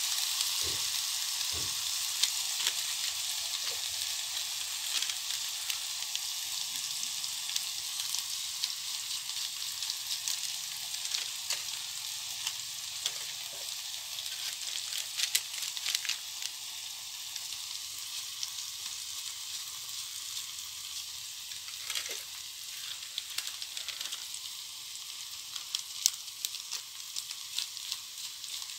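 Masala paste sizzling in hot oil in a steel kadai, a steady hiss dotted with small crackling pops and a few sharper clicks. The sizzle slowly dies down.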